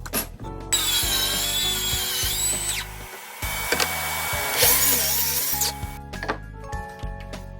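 Power drill running in two spells of a few seconds each, a high whine that shifts in pitch, over background music.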